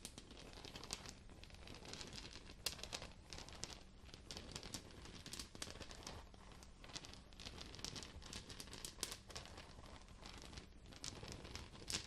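Irregular crinkling and crackling from an object being handled, made up of many small, uneven clicks.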